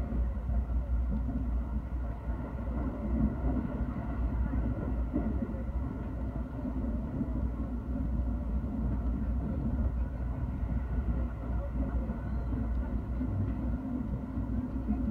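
JR commuter train running at speed, heard from inside the carriage: a steady low rumble of the running train that does not let up.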